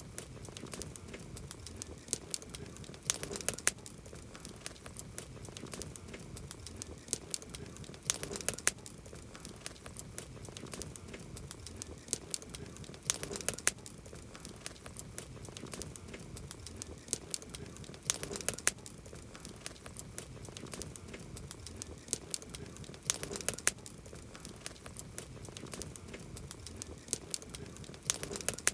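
Campfire crackling: wood snapping and popping in sharp clicks over a soft hiss, with a burst of louder pops about every five seconds.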